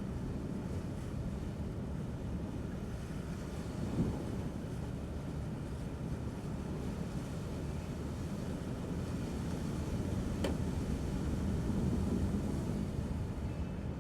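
Cars driving slowly through fender-deep floodwater: a steady low rumble of engines and water pushed aside, swelling from about nine to thirteen seconds in, with one short click about ten seconds in.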